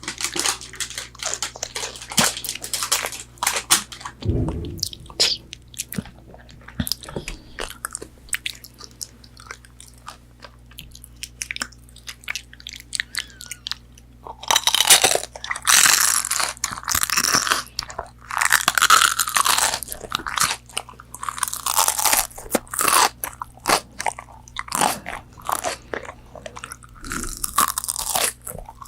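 Close-miked biting into and chewing crispy fried McDonald's chicken nuggets. A sparser stretch of small mouth clicks in the middle gives way to dense runs of loud crunching about halfway through, with a brief low thump about four seconds in.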